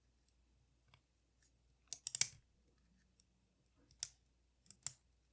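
Small metal tools clicking and tapping against the parts of a Leica IIIF camera being taken apart. There is a quick cluster of clicks about two seconds in, then single clicks near four and near five seconds.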